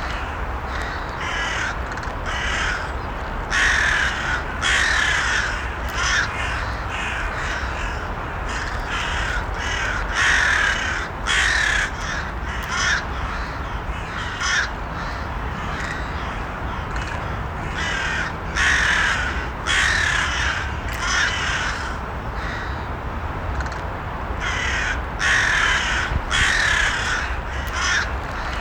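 Crows cawing repeatedly, many short harsh caws coming in irregular runs, over a steady low rumble of background noise.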